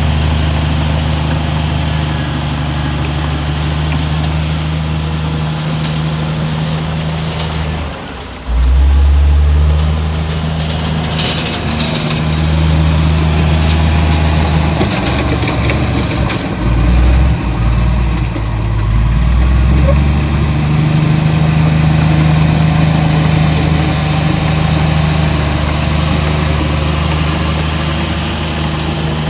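Heavy diesel engine of earthmoving machinery running under varying load, its low note shifting up and down. It drops briefly about eight seconds in, and a short run of clicks comes a few seconds later.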